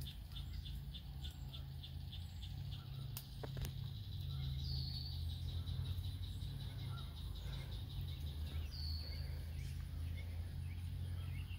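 Birds calling over a low, steady rumble: a rapid series of high ticking notes, about four a second, in the first few seconds, then two short high calls, about a third and about three-quarters of the way through.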